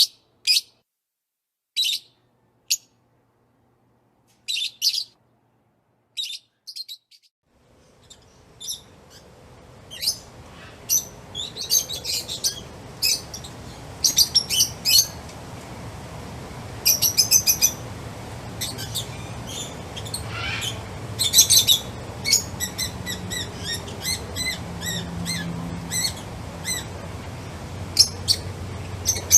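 Songbirds chirping: short, spaced calls over silence at first, then from about eight seconds in several birds chirping and trilling over a steady outdoor ambience.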